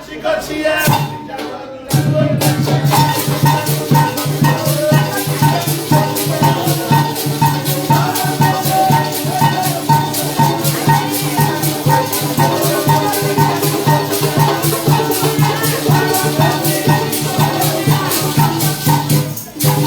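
Parang band playing an instrumental passage: maracas shaking a fast, even rhythm over a pulsing bass line. It starts about two seconds in after a brief break and stops just before the end.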